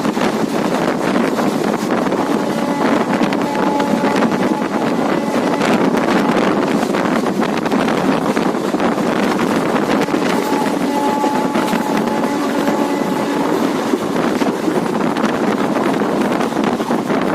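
Steady running noise of a passenger train heard from on board, with wind buffeting the microphone.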